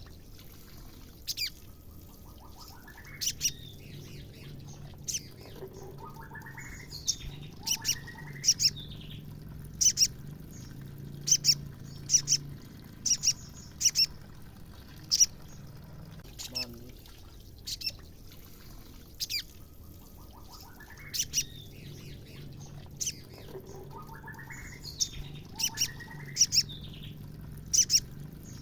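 Female white-rumped shama calling: sharp, high, clicking calls about once a second, mixed with short rising whistled notes. The same sequence repeats after about sixteen seconds.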